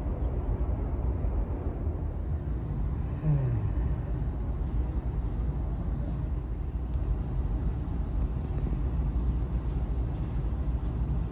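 Steady low rumble of a high-speed train heard from inside the carriage, with a short tone falling in pitch about three seconds in.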